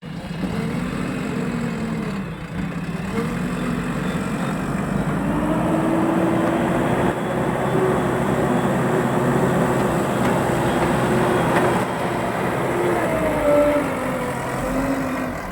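JCB machine's engine running under load, its pitch rising and falling slowly as the revs change.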